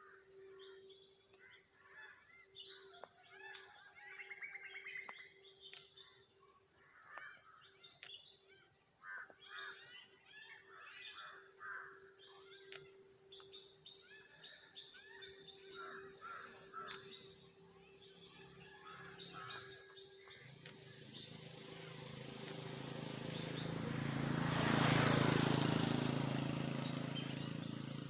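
Outdoor ambience of small birds chirping over a steady high insect drone. Near the end a broad rush of noise swells up and fades away.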